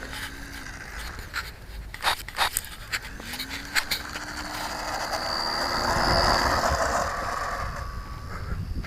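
Knocks and clicks, then the RC model Cessna's motor and propeller winding up: a short rising hum twice, then a swelling rush of propeller noise with a thin high whine, loudest about six seconds in.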